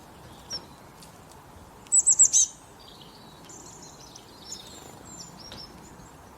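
Songbirds singing in the countryside. About two seconds in, one bird gives a loud phrase of four quick high notes, and softer twittering from other birds follows over a faint steady background hiss.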